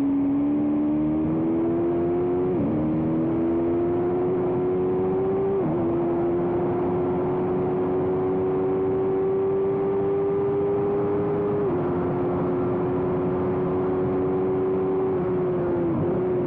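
A small-displacement racing motorcycle's engine held at high revs under load, pitch slowly climbing, with brief dips and small drops in pitch about three, six and twelve seconds in and again near the end.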